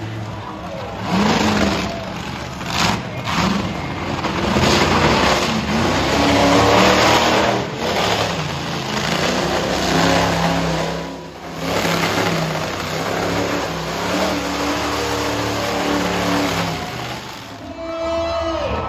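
Monster truck engines revving hard, the pitch climbing and falling again and again, with a brief drop in level about eleven seconds in.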